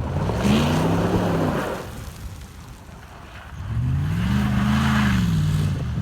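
Ford F-150 pickup's engine revved twice, each rev climbing in pitch and dropping back down, with a short lull between.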